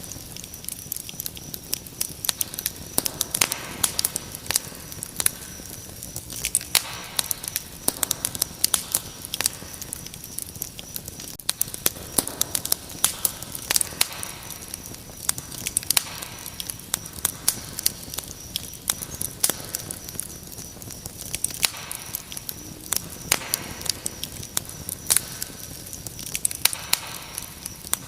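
Wood fire crackling, with frequent irregular sharp pops and snaps over a soft hiss. Behind it, crickets trill in a steady high tone.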